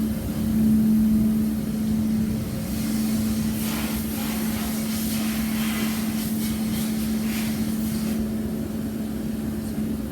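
Duct-cleaning vacuum machine running steadily, a constant motor hum over rushing air, with some faint rustling and knocking in the middle.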